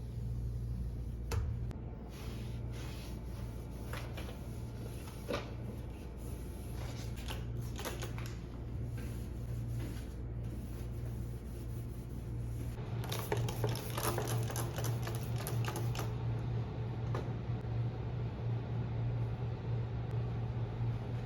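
Steady low mechanical hum with light clicks and knocks of objects being handled scattered over it, and a busy run of clicking and clattering from about 13 to 16 seconds in.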